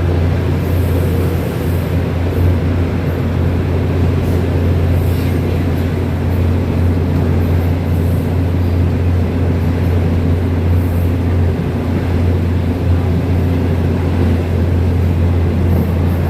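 Train running steadily, a constant low hum under an even rolling noise.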